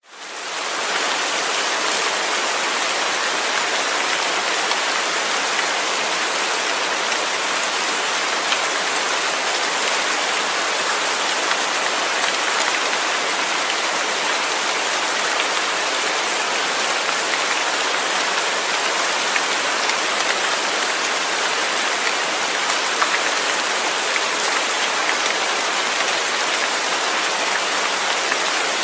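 Steady rain falling: an even hiss of many drops with scattered sharper drop ticks. It fades in from silence over the first second.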